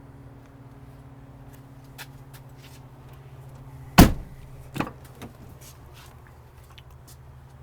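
A pickup truck door shut firmly about four seconds in, followed by a lighter knock just under a second later, over a steady low hum.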